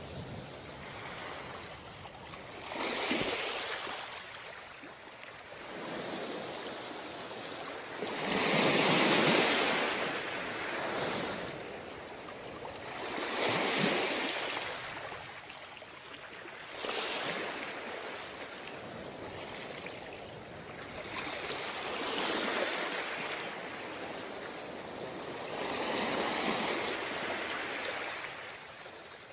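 Ocean surf breaking on a beach, one wave after another about every four to five seconds, each a swell of rushing noise that falls away as it washes back; the biggest breaks about nine seconds in.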